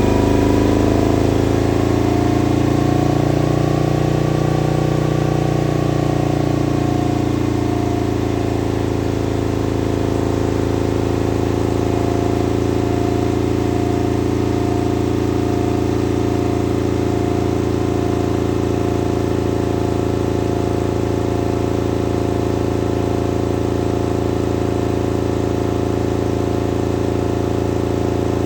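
Harley-Davidson Milwaukee-Eight V-twin with an S&S 475 cam idling through an aftermarket exhaust. The engine note shifts a little over the first several seconds, then settles into a steady idle.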